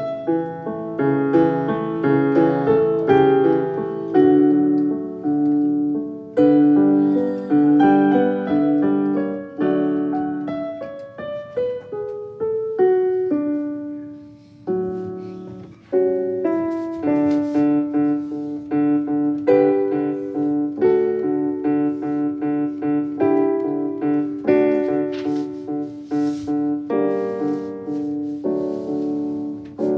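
Solo piano background music: a flowing run of notes over held chords, dipping briefly about halfway through.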